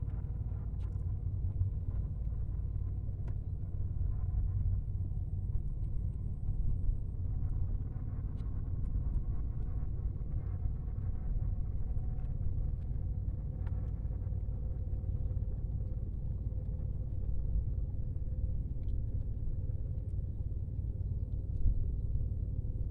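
Strong wind buffeting the microphone: a steady low rumble with a few faint clicks scattered through it.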